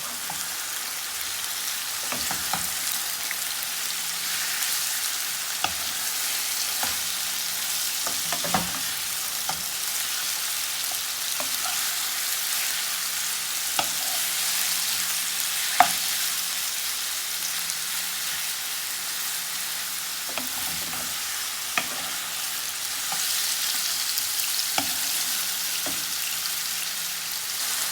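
Marinated chicken strips sizzling steadily in hot olive oil in a frying pan on full heat, with scattered knocks and scrapes of a spatula as the pieces are turned and stirred.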